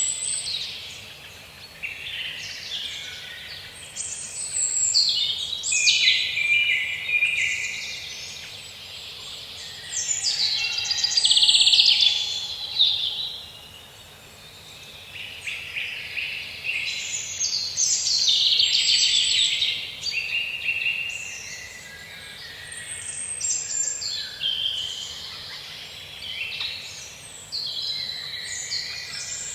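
Several songbirds singing and calling in a forest, their high chirps and trills overlapping almost without a break, over a faint steady hiss.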